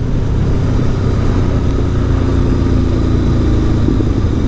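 Aprilia Tuono V4 1100 Factory's V4 engine running at a steady pace on the move, its note holding level with a constant low rumble underneath.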